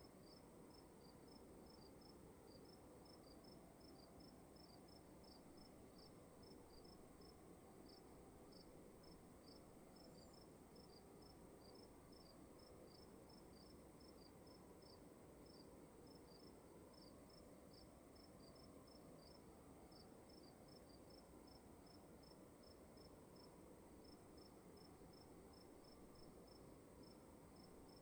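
Crickets chirping faintly in a steady, even rhythm, with a continuous high trill above the chirps and a low hiss underneath.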